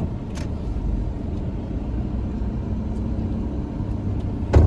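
Steady low rumble of a moving car, with a faint click about half a second in and one sharp knock near the end.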